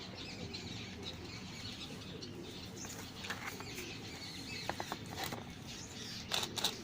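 Faint background of birds chirping, with a few short clicks about five seconds in and again near the end.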